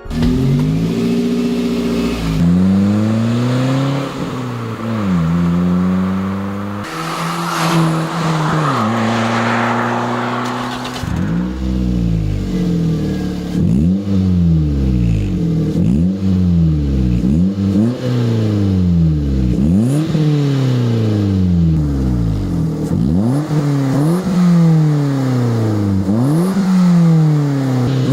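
Toyota Yaris P1 1.3 VVT-i four-cylinder engine revving through an Ulter sport rear silencer with twin 80 mm tailpipes. It is first held at a few steady engine speeds, then blipped again and again, about one rise and fall every two seconds through the second half.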